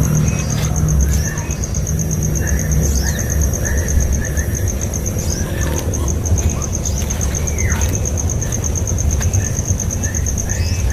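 Outdoor ambience: a steady, rapidly pulsing high insect trill, scattered short bird chirps with one falling call past the middle, over a low rumble of wind.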